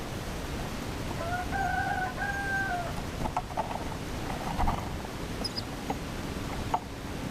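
A chicken crowing once, one long drawn-out call of nearly two seconds, with a few scattered light clicks and a low rumble of wind or background noise.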